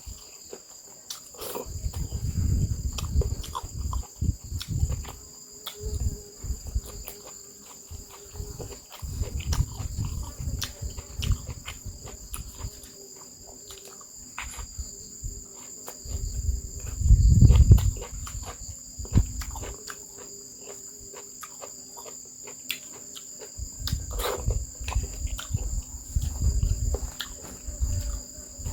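A person chewing and eating close to the microphone, in irregular bursts of low mouth noises and clicks, loudest about two-thirds of the way through. Insects keep up a steady high-pitched shrill behind it throughout.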